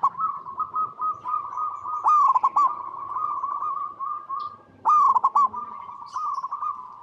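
Zebra dove (perkutut) cooing, repeating its song phrase about every three seconds. Each phrase opens with a few loud, quick falling notes and runs on into a long trilled coo.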